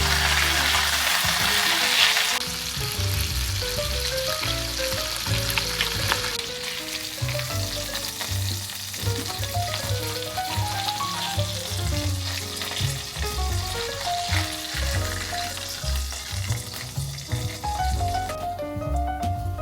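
Food sizzling as it fries in a pan, loudest in the first two seconds and then quieter, with stirring. Background music with a melody and a pulsing bass plays throughout.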